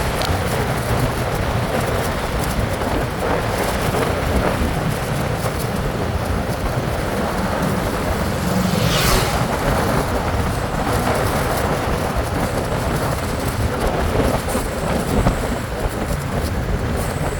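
Steady wind noise on the microphone and road rumble from a moving bike, with a brief high hiss about nine seconds in.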